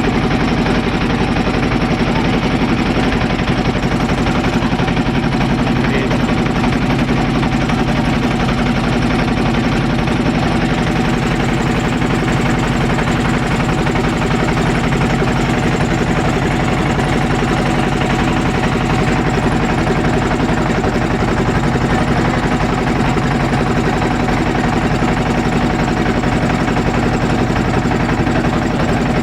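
A motorboat's engine running steadily at an even speed.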